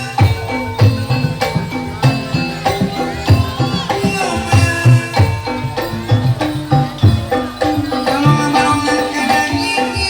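Kuda lumping accompaniment music: hand drums beat a fast, even rhythm under sustained ringing metallophone tones, with a jingling rattle.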